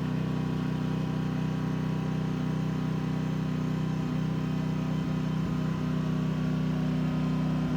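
A steady low mechanical hum, like a motor or engine running at an even speed, with no change in pitch or level.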